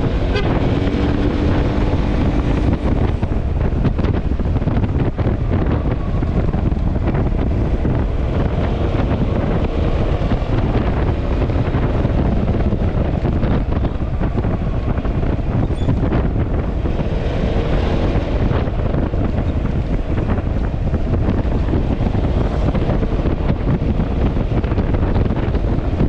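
Wind buffeting the microphone on a moving Yamaha XMAX scooter, a steady loud rush, with the scooter's single-cylinder engine faintly audible underneath, its pitch shifting slightly.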